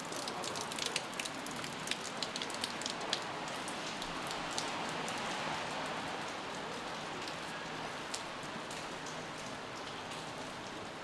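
Steady rain hissing on a wet street, with many sharp individual drop hits that are thick for the first three seconds and sparse after.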